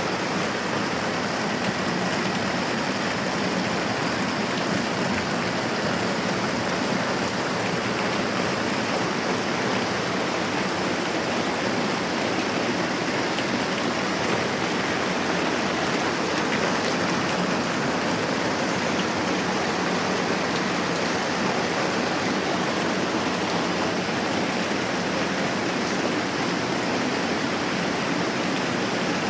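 Moderate rain falling steadily: an even, unbroken hiss of water.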